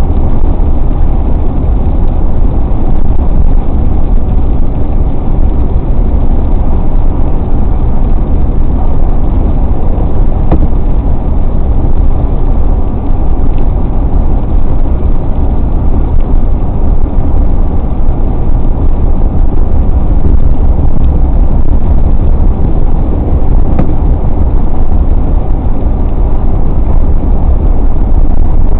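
Car driving along a highway: steady, unbroken road and engine noise, strongest in the low end.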